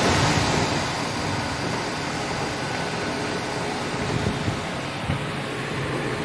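Chevrolet Malibu 3.6L V6 engine running with the A/C compressor engaged and turning on the serpentine belt, a steady mechanical running noise. The compressor is working and runs without any abnormal noise.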